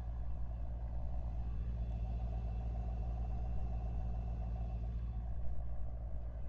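Car engine idling: a steady low rumble that holds even throughout.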